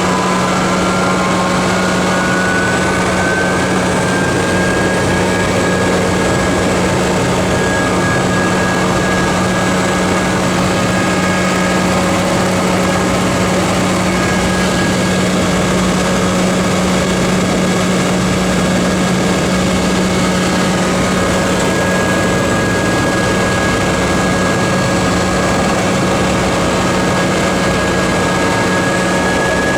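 Helicopter turbine engine and rotor running steadily, a loud constant drone with a low hum and a high whine that rises a little over the first few seconds and then holds.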